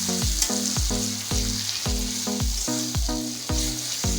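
Tomato-and-spice masala sizzling in hot oil in the pan as it is stirred. Background music with a steady beat and repeating notes plays over it.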